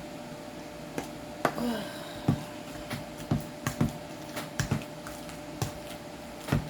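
Potato masher knocking and squishing in a pot while mashing cooked potatoes: about a dozen irregular clanks and thuds, a few close together.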